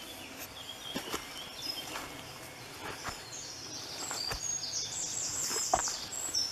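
Songbird singing in woodland: scattered high notes, then a fast, rapid-fire run of high notes from about three seconds in that grows louder toward the end. A few scattered soft footstep clicks on the forest floor.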